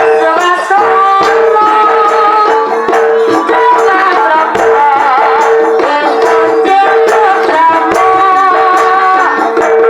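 Jaranan ensemble music played live: percussion with a melody that wavers over a long held note.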